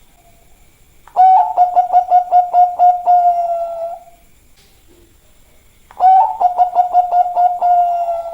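Zebra dove (perkutut) cooing: two song phrases, each a quick run of about ten short, even notes ending in a longer held note, the second starting about six seconds in.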